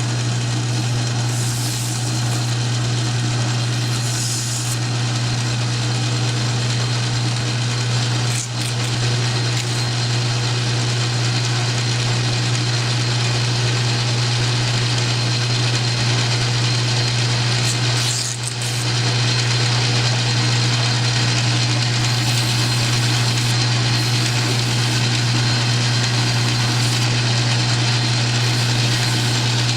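South Bend metal lathe running steadily with a strong, even motor hum, dipping briefly twice, about 8 and 18 seconds in.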